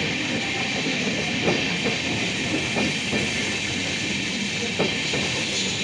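A train running through the station, a steady rush of wheels on rail with a few sharp knocks from the rail joints.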